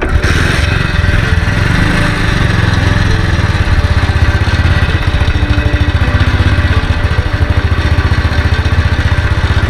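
Hero HF Deluxe motorcycle's small single-cylinder four-stroke engine running steadily at idle, a fast even putter heard close up.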